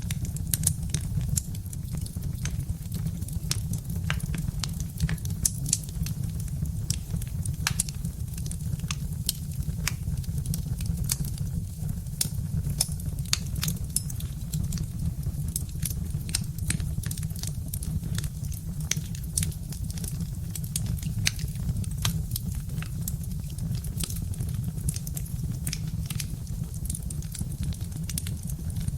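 Birch-log fire crackling, with frequent sharp pops and snaps at irregular intervals over a steady low rumble of the burning fire.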